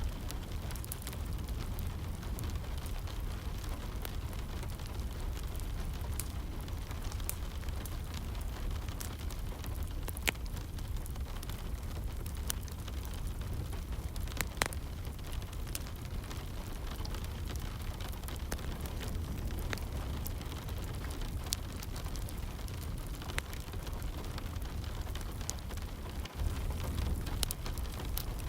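Wood fire crackling in a fireplace, with scattered sharp pops, the loudest about ten and fourteen seconds in, over a steady low rumble and soft rain.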